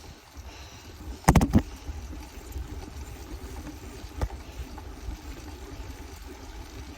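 Bicycle ride picked up by a phone mounted on the bike: a steady rumble of wind and riding noise, with a loud double knock about a second in and another sharp knock about four seconds in as the phone mount jolts.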